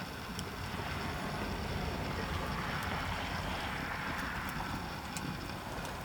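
Campfire burning with a steady rush of flames and occasional sharp crackles. A broad whoosh of noise swells up from about a second in and fades again near the end.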